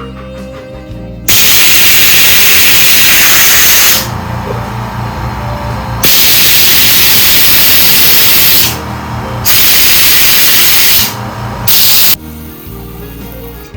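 Compressed air from an air-compressor blow gun hissing as it blows out a Briggs & Stratton plastic lawnmower carburetor, in four blasts: two long ones of a couple of seconds each, a shorter one, and a brief one near the end. Background music plays between the blasts.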